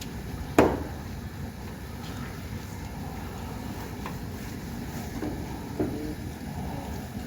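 Steady low wind rumble on the microphone, with one sharp knock about half a second in and a couple of fainter knocks later.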